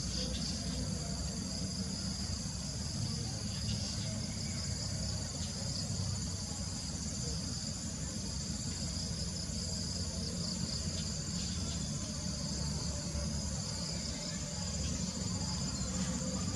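Steady high-pitched chorus of insects chirring without pause, over a low steady rumble.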